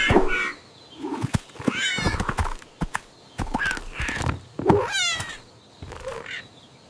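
Short squeaky, meow-like vocal calls from animated characters, several in a row with sliding pitch, with sharp clicks in between.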